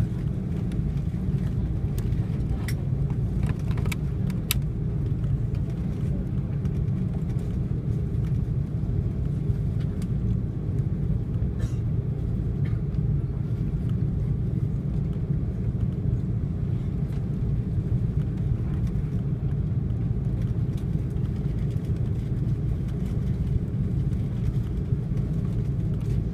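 Steady low rumble in the passenger cabin of an Airbus A330-300 airliner on the ground before takeoff, with a few light clicks in the first few seconds.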